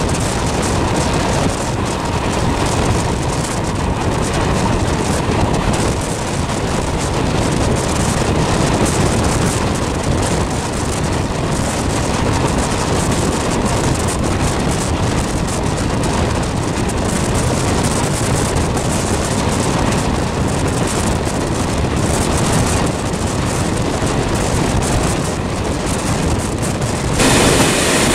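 A vehicle's steady running noise, turning brighter and slightly louder near the end.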